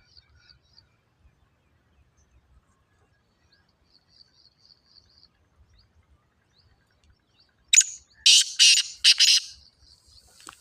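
Black francolin calling: a loud, harsh phrase of about four grating notes late on. Faint rapid high chirping from a small bird comes earlier.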